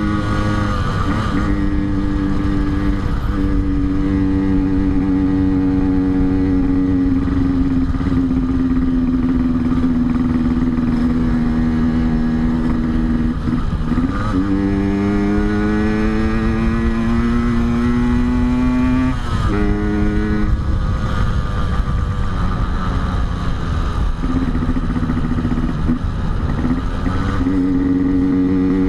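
Yamaha RX-King two-stroke single-cylinder motorcycle engine running under way, its pitch sinking slowly, then climbing, with quick drops and jumps in pitch about a third and two thirds of the way in as it changes speed.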